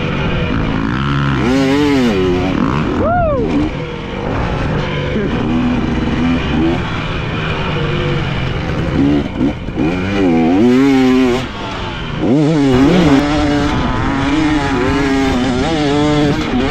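Dirt bike engine being ridden hard on a motocross track, its pitch rising and falling again and again as the throttle is opened and shut. There is a sharp rev up and cut about three seconds in.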